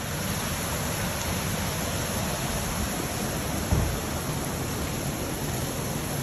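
Steady rushing water noise from the storm flooding, with a brief low thump a little past the middle.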